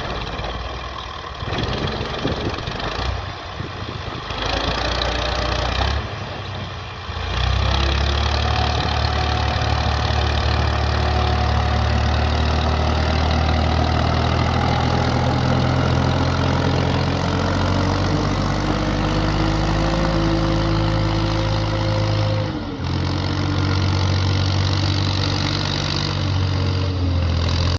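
Tractor diesel engine running hard, its pitch slowly rising as it pulls; the sound is uneven for the first several seconds with short drops, then steady, with a brief dip about 22 seconds in.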